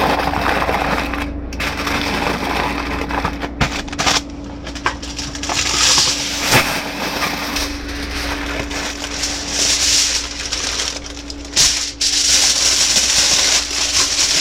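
Aluminum foil crinkling and crackling as it is folded and rolled up into a packet, with a faint steady hum underneath. The crinkling breaks off abruptly several times.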